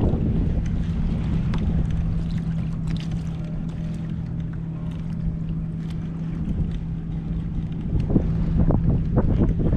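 Boat engine running with a steady hum, wind buffeting the microphone. A few short knocks come near the end.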